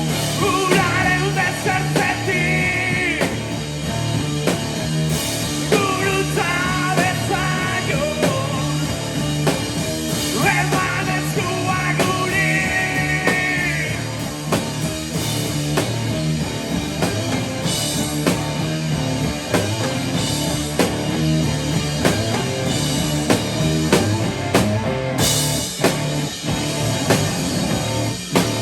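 Live rock band playing with drums and a pulsing bass line; wordless vocal lines sound in the first half, and the second half is instrumental.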